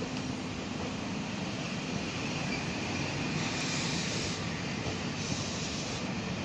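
Train running along the station track: steady wheel-on-rail rumble with a faint high wheel squeal, and two short hissing surges, the first about three and a half seconds in and the second about a second and a half later.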